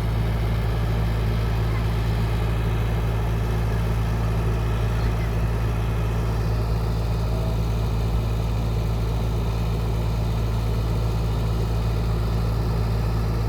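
Caterpillar E120B excavator's diesel engine running steadily at an even speed, with no revving.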